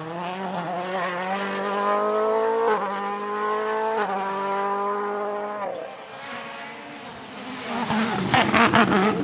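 A 2019 World Rally Car's turbocharged engine accelerating hard, its pitch climbing and dropping at two quick upshifts about three and four seconds in, then fading away. Near the end comes a loud burst of crackling noise.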